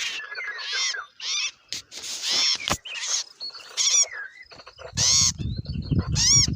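Birds giving a run of short, harsh calls, each rising then falling in pitch, about one or two a second. A low rumble runs under the last calls.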